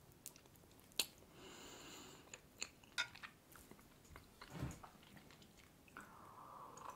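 Quiet close-miked chewing of a bite of cheesecake, with scattered soft wet mouth clicks. Near the end, a sip of tea from a mug.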